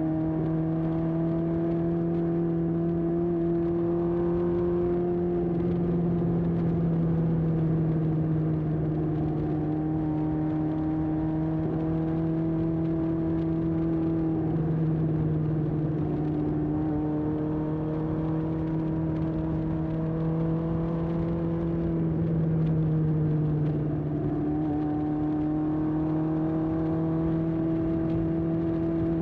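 1981 Honda CB750F's air-cooled inline-four running through a period Yoshimura muffler at a steady cruise, its exhaust note drifting gently up and down in pitch with small throttle changes.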